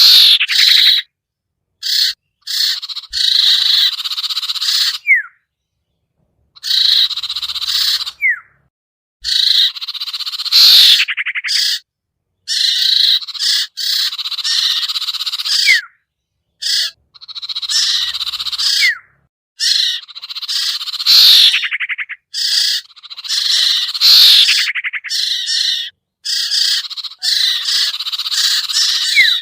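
Bird-lure call recording for the sirtu (cipoh): harsh, buzzy chattering calls in repeated phrases of one to two seconds, cut by sudden silent gaps, several phrases ending in a short rising whistle.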